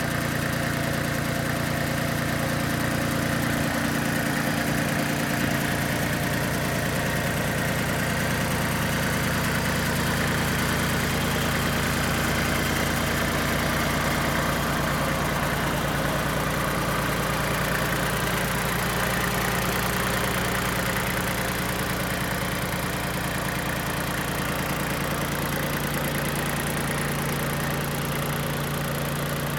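Mitsubishi MTE2000 compact tractor's diesel engine running steadily at idle.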